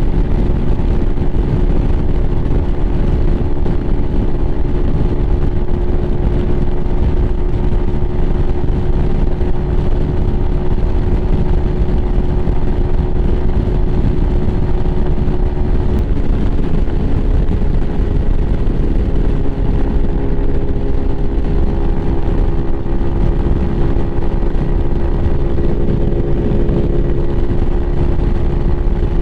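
Lifan KPM 200's single-cylinder engine running steadily at cruising speed, with heavy wind rush over the microphone. The engine note shifts slightly about halfway through.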